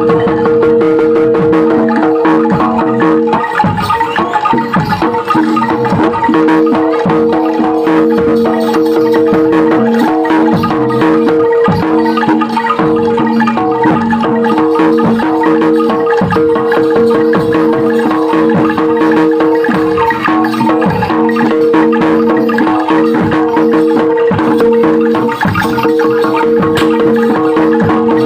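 Loud music played through a large street sound system: a xylophone-like mallet melody over a steady held drone and a dense beat.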